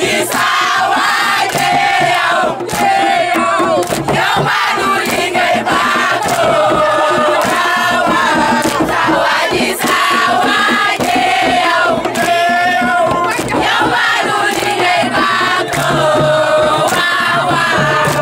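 A crowd of voices singing a chant together, loud and steady, over many sharp beats.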